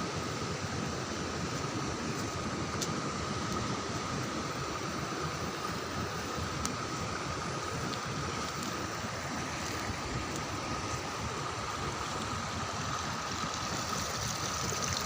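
Steady rush of flowing water, with a faint steady high tone running through it.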